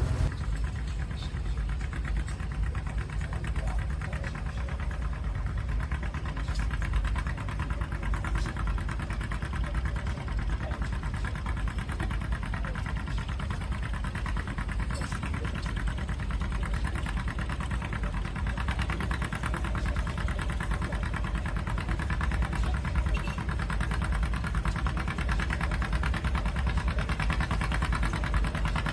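Antique farm tractor engine running steadily, with a dense low firing pulse and no big changes in speed.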